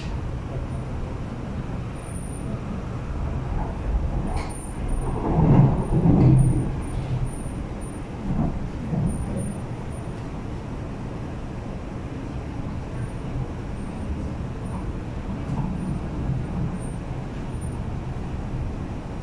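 Steady rumbling running noise of an MTR East Rail Line R-Train electric multiple unit, heard from inside the train, with a louder surge of rumble about five to seven seconds in.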